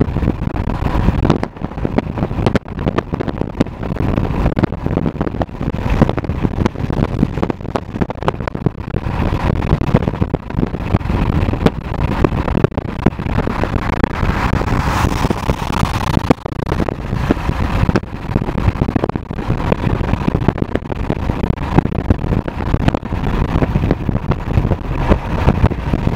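Car driving at speed, with continuous road and engine noise and wind buffeting the microphone.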